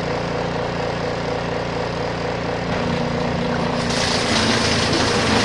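Spin dryer of a portable twin-tub washing machine starting up, its motor humming steadily as it spins; a little under three seconds in the hum shifts, and about four seconds in a louder rushing hiss joins it.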